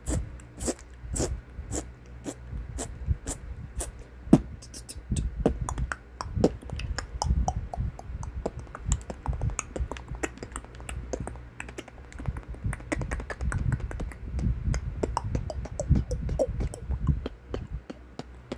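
Computer keyboard keys clicking irregularly and rapidly, with low thuds mixed in.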